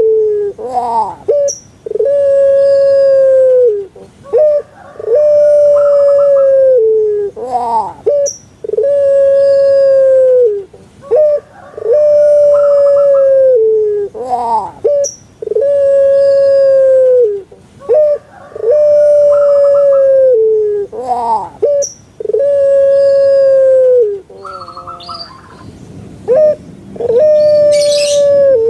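Puter pelung, a long-voiced domestic Barbary dove (Streptopelia risoria), calling over and over. Each call is a short rising-and-falling note followed by a long, drawn-out coo held on one pitch that drops at its end, about every three seconds.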